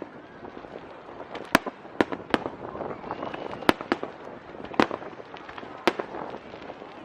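Aerial fireworks bursting, a string of sharp bangs at uneven intervals, about eight in seven seconds, over a steady background hum.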